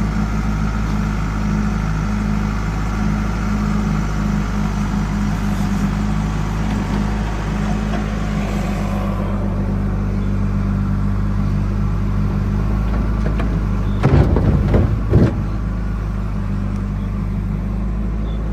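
Heavy diesel engine running steadily. Just after the middle there is a loud cluster of knocks and clatter that lasts about a second.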